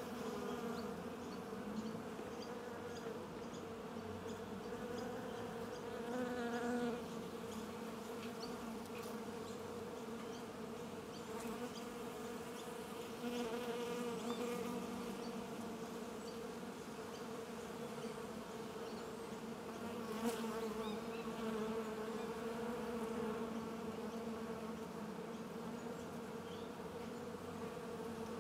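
A mass of honeybees buzzing on a comb frame held out of the hive: a steady, low, even hum with overtones, swelling a little now and then.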